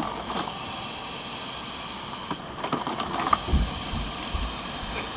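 Sunbeam drip coffee maker brewing, steam hissing steadily from its opened top, with a few low knocks about three and a half seconds in.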